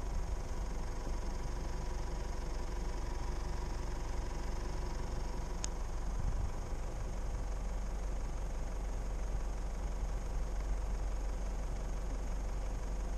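A 4x4 vehicle's engine running with a steady low rumble, picked up by a camera on the vehicle's roof. A single sharp click comes about six seconds in.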